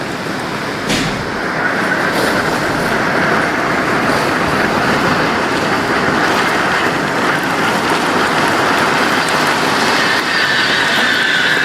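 Heavy tropical rainstorm with strong wind, a loud steady rushing noise. A faint high whistling tone comes in about a second and a half in and grows stronger near the end.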